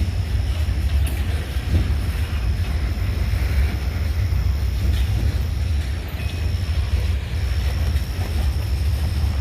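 Freight train rolling past: a steady low rumble of the locomotives and cars going by.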